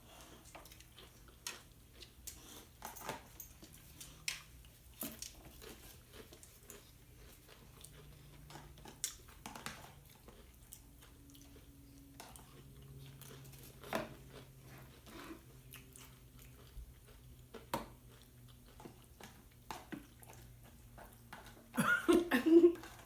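Close-up chewing and crunching of tortilla chips mixed with dip: scattered, irregular crunches and mouth sounds, with a louder burst of sound near the end.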